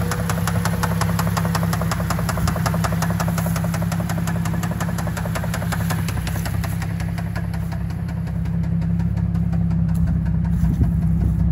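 Cadillac CTS 3.6-litre V6 idling with a rapid, even ticking from the top of the engine, which the owner takes for a faulty valve lifter on the camshaft. The ticks grow fainter over the last few seconds.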